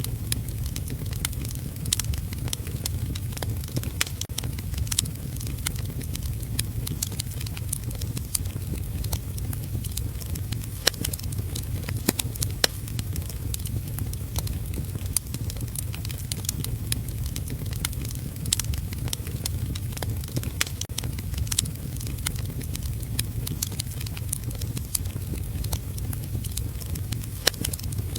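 Wood fire crackling, with frequent sharp irregular pops, over a low steady rumble and the even hiss of steady rain.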